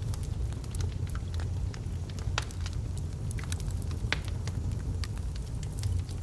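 Wood logs burning in a fireplace: irregular crackles and pops over a steady low rumble, with two sharper pops about two and a half and four seconds in.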